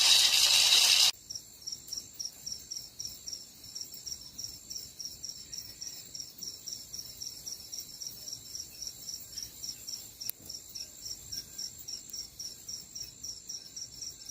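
Insect chirping in a steady, high-pitched pulse, about four chirps a second. It is heard behind a loud hiss that cuts off abruptly about a second in.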